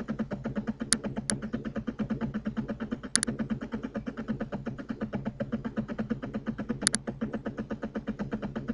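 Computer mouse clicks: two single clicks about a second in, then two quick double clicks, over a steady, fast-pulsing low hum.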